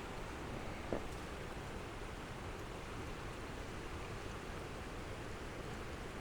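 Steady rushing of a mountain creek, with one small knock about a second in.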